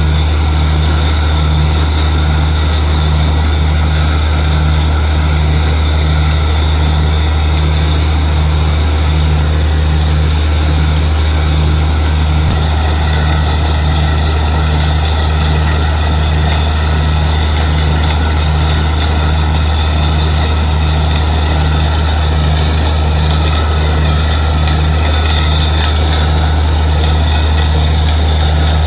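Bhagawati borewell drilling rig running steadily under load, a loud low engine drone with a regular throb about twice a second.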